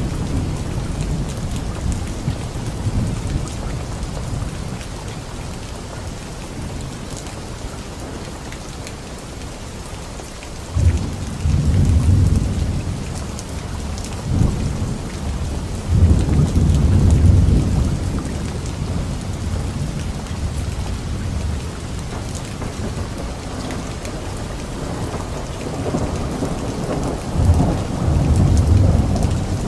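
Steady rainfall with low rolls of thunder that swell three times: a sudden one about eleven seconds in, a longer one a few seconds later, and another near the end.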